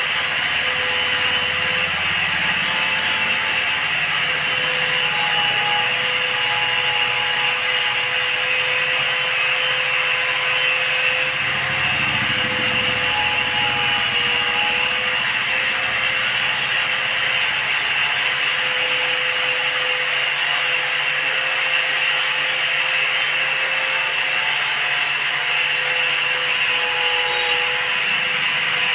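An electric power tool running at a steady speed for the whole stretch: a constant motor whine over a rough, noisy scraping of material being worked.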